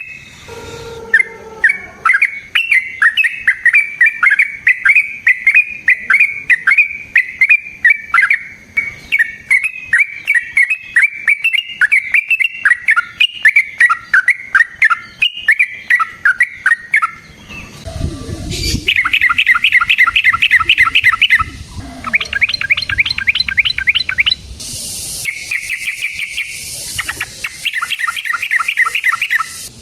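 Yellow-vented bulbul (trucukan) singing a long, unbroken run of quick bubbly phrases. About eighteen seconds in, the song gives way to fast rattling trills in bursts of a few seconds each.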